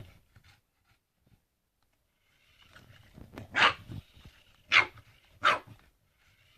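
Boston terrier barking three times in short, sharp barks, starting about halfway through: excited barking in play.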